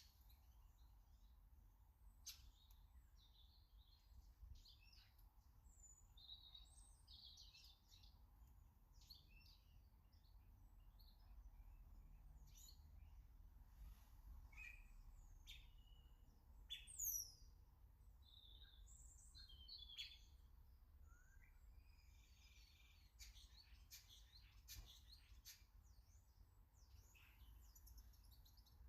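Garden birds chirping and calling faintly, many short high calls and brief trills overlapping, with one louder, quick downward-sweeping call about seventeen seconds in.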